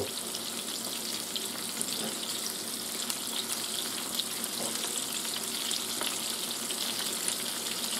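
Breaded razor clam strips frying in peanut oil in an electric skillet at about 400 degrees: a steady sizzle with small scattered crackles.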